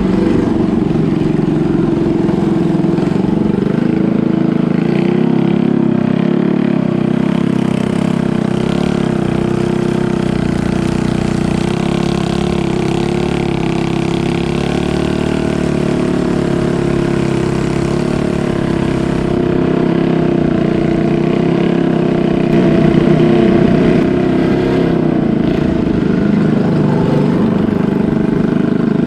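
Boat engine running steadily at a constant speed, loud and droning, with its pitch wavering slightly.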